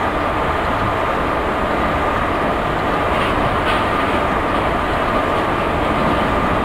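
High-speed electric passenger train running fast on the rails: a steady rushing noise with a faint held whine and a couple of light clicks midway.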